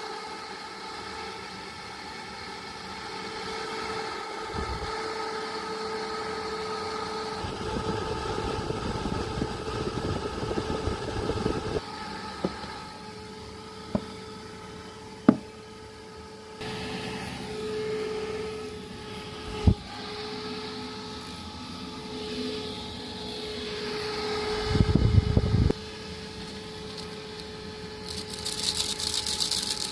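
Small portable electric fan running with a steady motor hum and whine. A few sharp clicks come partway through, along with short bursts of rustling handling noise.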